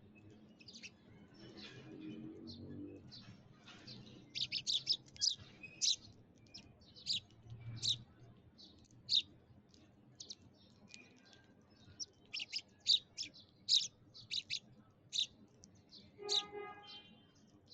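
Sparrows chirping: many short, sharp chirps coming in quick clusters of several at a time with brief pauses between. Near the end a lower, fuller call sounds among them.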